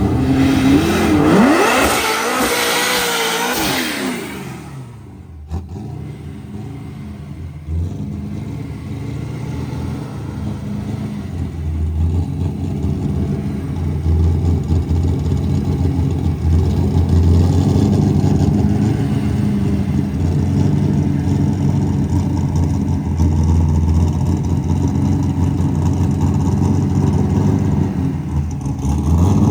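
Drag-racing car engines: for about the first four seconds a car runs hard at high revs, its pitch falling away, then a deep engine rumble idles steadily for the rest.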